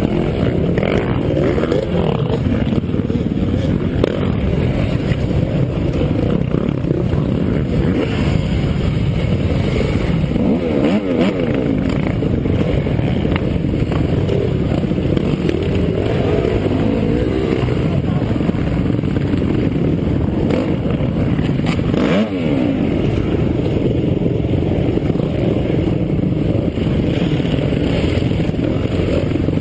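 Several dirt bike engines running at once, revving up and down, with the pitch swooping a couple of times, about 11 and 22 seconds in.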